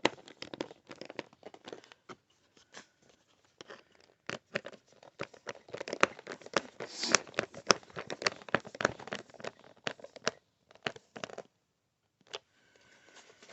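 Hard plastic body panels of a pit bike being handled and fitted: irregular clicks, taps and rattles of plastic with some rustling, dying away about eleven seconds in, with one more click a little later.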